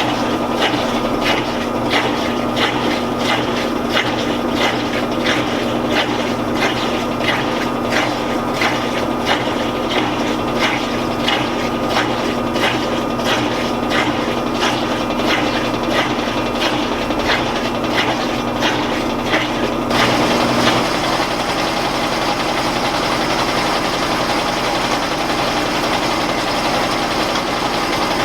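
Admiral (Whirlpool-built) belt-drive top-load washer in its high-speed spin, motor and tub running steadily with a regular tick about twice a second. About twenty seconds in, the ticking stops and the sound turns into a smoother, steady hiss.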